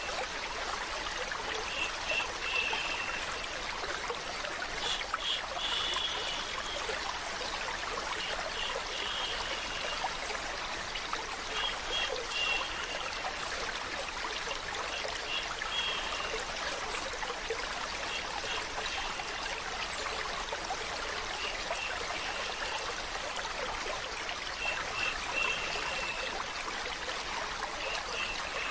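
A stream of water flowing and trickling steadily, with faint, short high chirps recurring every couple of seconds.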